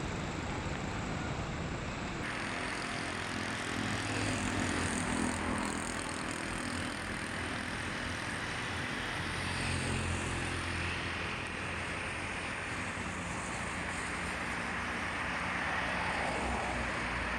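Steady rush of heavy rain and running floodwater, with a low hum that swells and fades a few times.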